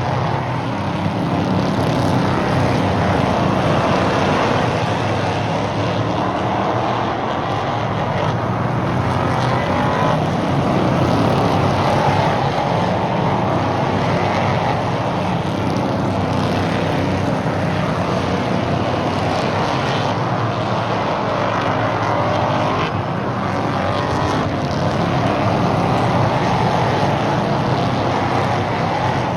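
Several stock cars racing round a short oval track, their engines running hard in a steady roar whose pitch swells up and down every few seconds as the cars accelerate and go by.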